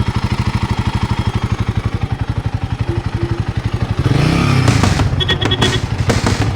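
Royal Enfield Himalayan's single-cylinder engine idling with an even, rapid beat. About four seconds in it gets louder, the revs rising and falling, with some clatter.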